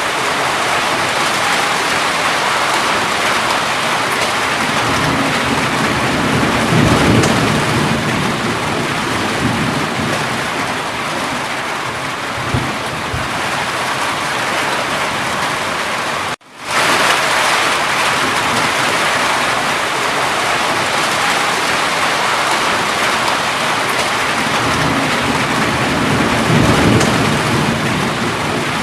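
Steady heavy rain with low rumbles of thunder swelling twice. The sound cuts out for a moment a little past halfway and comes straight back.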